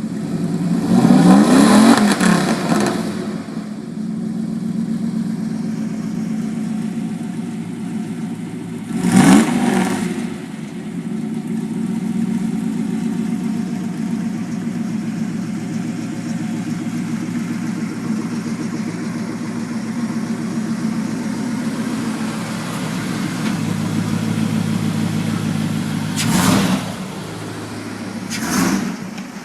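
1999 Dodge Ram's 318 (5.2-litre) V8 idling through a Borla aftermarket exhaust, revved up four times: a longer rev near the start, a short one about nine seconds in, and two short blips near the end.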